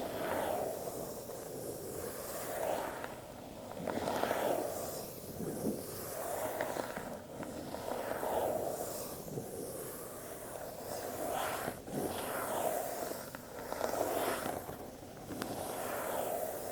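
Lid of a cardboard Apple product box being slid on and off its base. It makes a soft, airy rubbing swish that swells and fades about every one and a half to two seconds, with a few light ticks in between.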